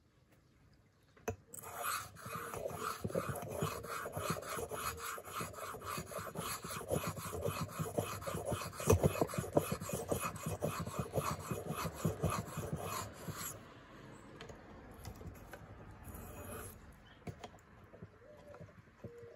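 Leatherman PST knife blade being sharpened on a sharpening stone: quick back-and-forth strokes of steel scraping across the abrasive, about three a second. The strokes start about a second in, stop about two-thirds of the way through, and only faint scraping follows.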